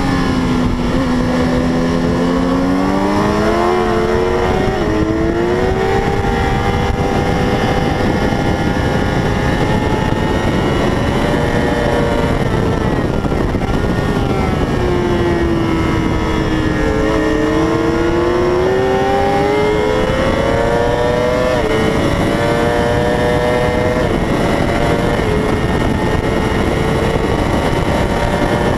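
A 600 cc racing motorcycle's engine at racing pace: the pitch falls as it slows, then climbs again, with short drops at each upshift, all over heavy wind rush.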